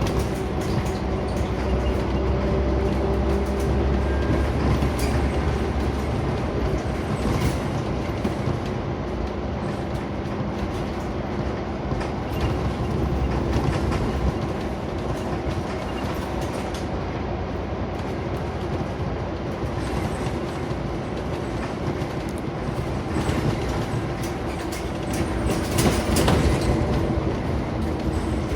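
Scania Omnicity city bus heard from inside the saloon while in service: the engine runs with road rumble and rattling interior fittings. A steady engine hum in the first six seconds gives way to broader road noise, with a louder stretch of rattles near the end.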